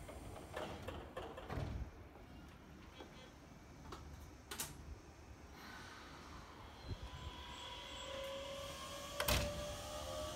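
Hokuso Railway 7300-series electric commuter train's doors sliding shut with knocks and clunks, then the train's traction motors starting a steady whine that rises slowly in pitch as it pulls away.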